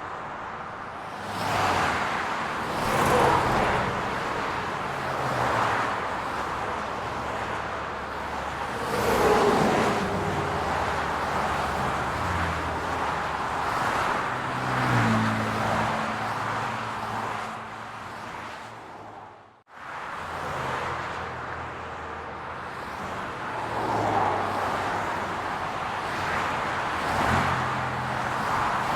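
Road traffic on a city street: cars passing one after another, each swelling and fading every few seconds, with the low hum of an engine in the middle. The sound cuts out for a moment about two-thirds of the way through, then resumes.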